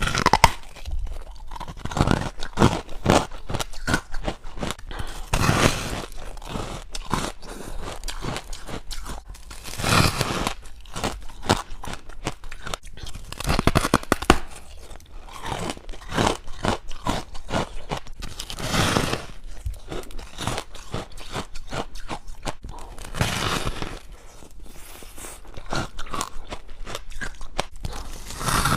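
Close-up crunching and chewing of frost-like white ice, a steady crackle broken by louder bites every few seconds.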